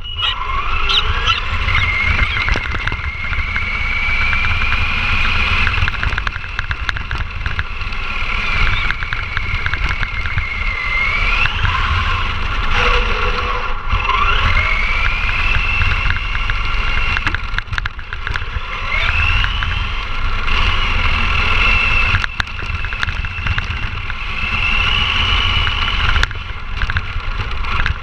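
ECX Ruckus 4x4 RC monster truck's electric motor and gears whining as it drives, the pitch rising and falling again and again as it speeds up and slows down, over a steady low rumble.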